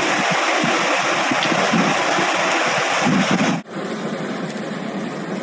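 Loud, steady rush of flowing floodwater, with irregular low rumbling like wind buffeting the microphone. About three and a half seconds in, it cuts abruptly to a quieter, steadier rush.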